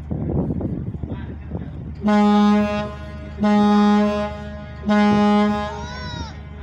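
A ferry's horn sounding three short blasts of one steady pitch, about a second and a half apart, over the steady low hum of the ship's engines.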